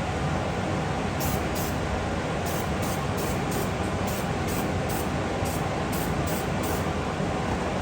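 About a dozen short hisses of spray in six seconds, over a steady rushing noise like a fan or blower.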